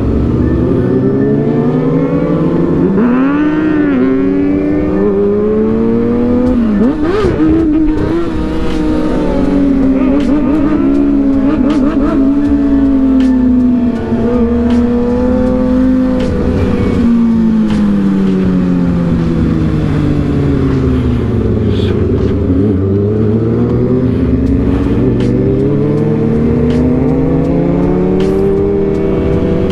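Vehicle engine running, its pitch climbing, holding and falling again over spans of several seconds as it speeds up and slows down, with a few sharp cracks.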